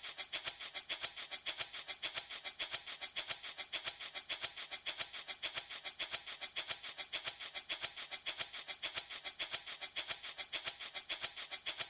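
Handmade rattle shaken in a steady, even rhythm, each shake a crisp, high rattle.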